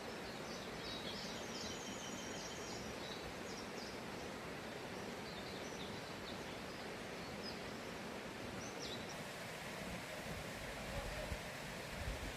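Steady rush of a mountain valley stream, with small birds chirping and trilling high above it until about three-quarters of the way through. A few soft low knocks come near the end.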